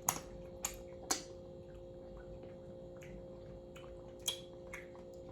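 A few short, sharp mouth clicks and smacks from someone eating, spaced irregularly, over a steady faint electrical hum.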